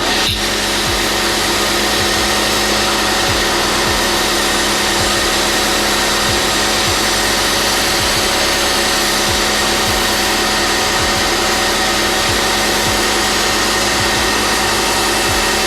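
Electric cleaning machine motor running steadily at full power: a continuous whine over a loud hiss, with no change in speed, cutting off suddenly near the end.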